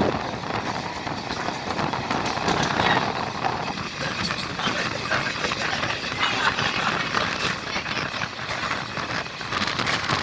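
Express train running through at speed, its coaches' wheels clattering on the rails in a continuous, loud stream of noise.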